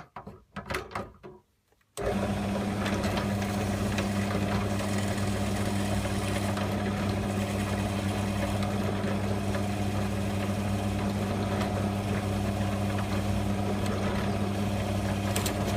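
Drill press switched on about two seconds in, its electric motor then running at a steady hum while drilling the lanyard hole through a knife handle. A few light knocks of handling come before it starts.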